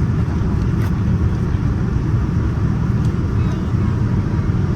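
Steady low rumble of cabin noise inside a Boeing 787-9 airliner.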